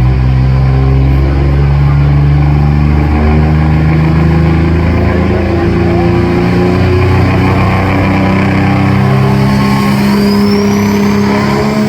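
A pulling truck's engine running hard under heavy load as it drags the weight sled. Its note holds loud and shifts up and down in steps, and a high whistle rises near the end.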